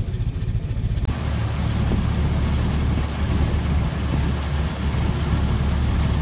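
Ford Model T four-cylinder side-valve engine idling with even, low firing pulses. About a second in, the sound changes to the car under way: the engine running steadily with a constant rush of wind and road noise.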